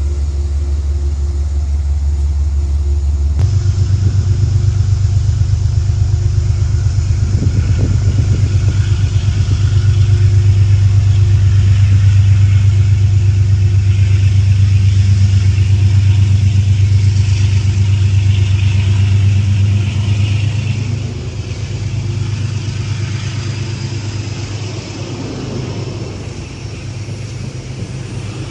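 A passing train's locomotive engine running loudly with a deep hum, stepping up in pitch about three seconds in, then fading after about twenty seconds.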